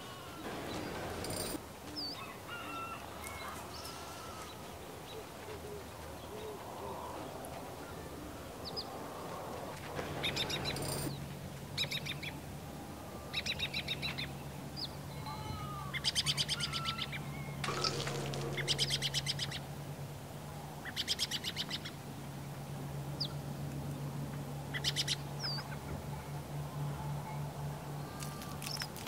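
Birds chirping and calling, with several bursts of rapid rattling calls and, from about ten seconds in, a steady low hum beneath them.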